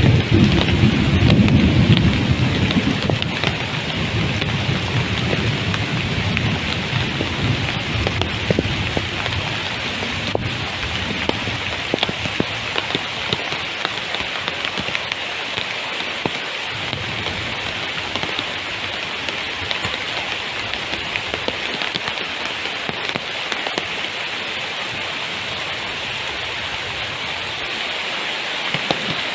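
Heavy jungle rain falling steadily, with individual drops tapping close by. A low rumble in the first few seconds dies away.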